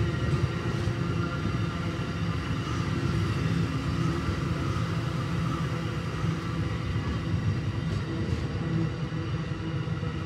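Amtrak passenger cars rolling past: a steady rumble of steel wheels on the rails.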